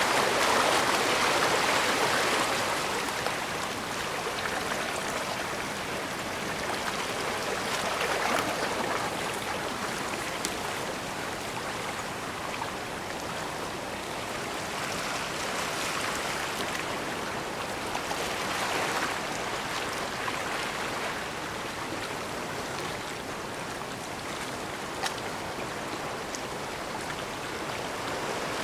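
Small waves washing and lapping at the shore of a bay, a steady rush of water that swells and eases every few seconds, loudest near the start.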